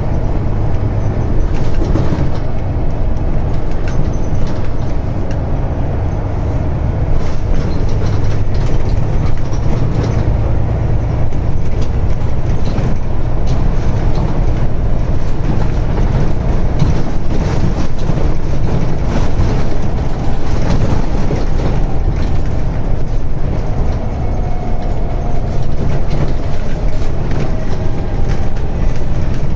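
Scania N94UD double-decker bus under way, its diesel engine running with a steady low drone and many short rattles. A faint whine rises near the end.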